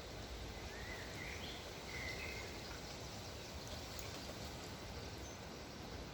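Steady low rumble of wind, with a few short birdsong chirps rising in pitch between about one and two and a half seconds in.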